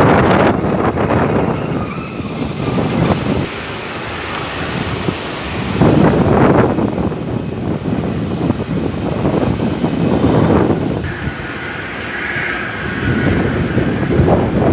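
Jet airliner noise: a broad rushing rumble that swells and eases every few seconds.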